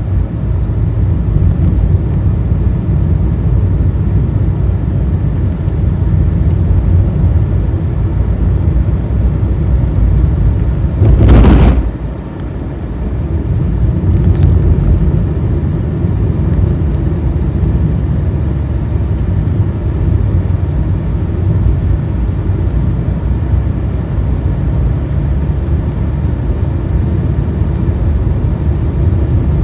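A car driving along a road: steady low rumble of engine and tyres. About eleven seconds in comes a brief, loud burst of noise, after which the rumble dips for a moment and then returns.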